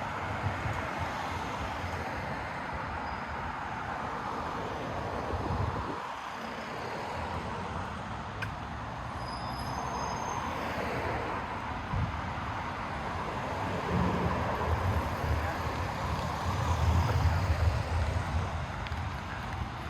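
Steady city street traffic: engines and tyres of passing vehicles. It grows louder in the last several seconds as a vehicle passes closer.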